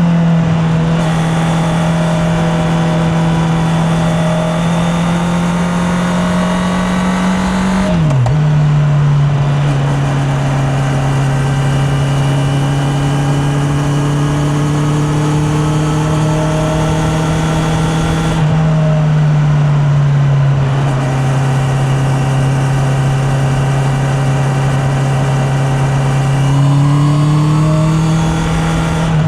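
Honda CB650R's inline-four engine running at steady cruising revs. Its note drops sharply about eight seconds in, as on a gear change, eases down a little later, and rises again near the end as the bike picks up speed.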